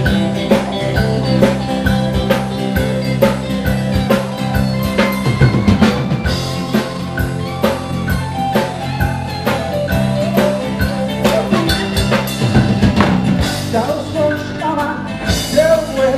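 Live band playing an instrumental break of a country-rock song: a drum kit keeps a steady beat under sustained bass and keyboard or guitar notes, with no singing.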